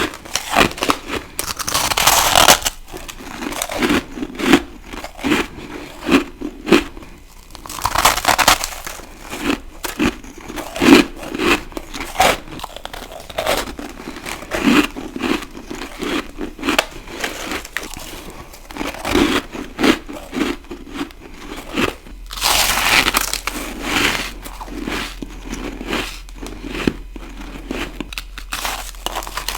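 Ice being bitten and chewed close to the microphone: crisp crunching chews about once a second, broken by a few longer, louder crunches as fresh bites are taken.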